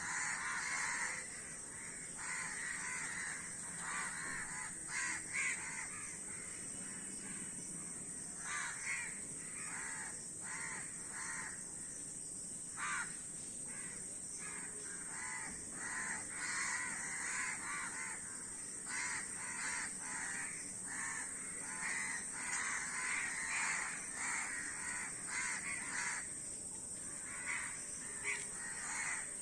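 A flock of crows cawing, many harsh calls repeating and overlapping, over a steady high-pitched hiss.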